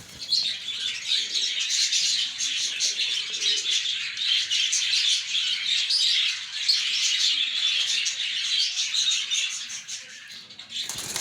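Many small birds chirping together in a dense, high-pitched, unbroken chatter that thins out a little near the end.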